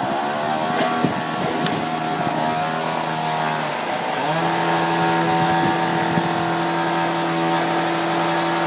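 A motor running steadily at a constant pitch. Its speed sags briefly and recovers about four seconds in.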